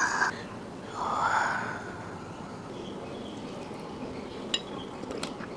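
Quiet close-miked eating sounds: a breathy exhale about a second in, then soft chewing with a few faint clicks near the end.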